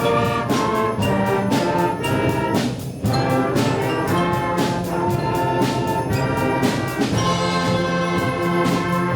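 Student ensemble playing a holiday piece, with brass (trumpets and trombones) carrying the tune over a steady percussion beat.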